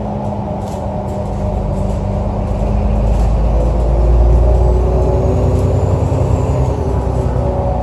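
Alexander Dennis Enviro 500 double-decker bus engine running, its low rumble building a second or two in, loudest about four seconds in, then easing off.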